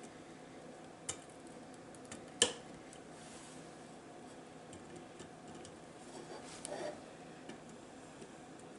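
A few faint, scattered clicks and taps, one sharper click about two and a half seconds in and a short cluster near the end, from hands handling the small lamp while bending down its protruding wires.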